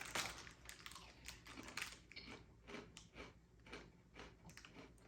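A person chewing a crunchy pork-flavoured snack, with faint, short crunches at about two or three a second.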